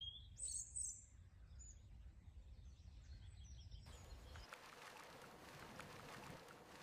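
Faint outdoor ambience: a few bird chirps in the first second over a low rumble, then, about four seconds in, the soft hiss of light rain with scattered drip ticks.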